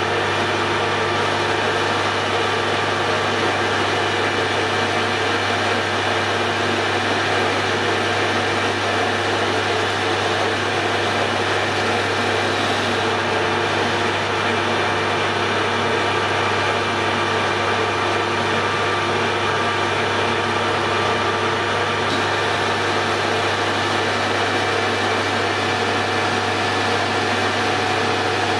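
Hare and Forbes AL335 metal lathe running at a steady speed with a constant hum while a small boring bar opens out a hole in the workpiece.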